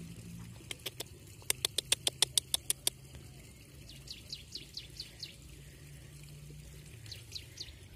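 A bird calling: first a rapid run of sharp ticks, about eight a second, for roughly two seconds, then a string of short falling chirps, with a few more near the end. A faint low steady hum lies underneath.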